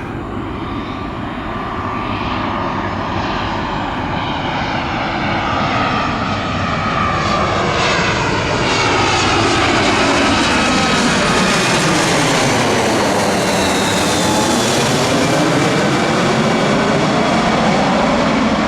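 Spirit Airlines Airbus A320-family jet airliner on landing approach passing close by, its engine roar building over the first several seconds and then holding loud. The tone sweeps down and back up as the jet passes closest, about two-thirds of the way in.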